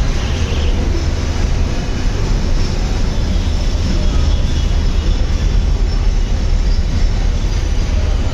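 Freight train's wagons rolling past close by: a loud, steady rumble of steel wheels on the rails.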